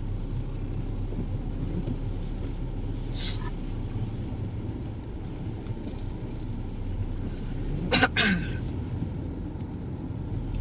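Steady low rumble of a car being driven, heard from inside the cabin, with a short cough about eight seconds in.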